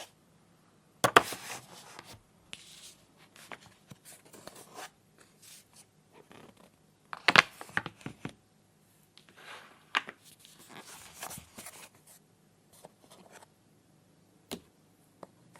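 Plastic toy pieces handled on a hard surface: three sharp knocks, each followed by a tearing, rustling sound, with lighter clicks and rustles in between.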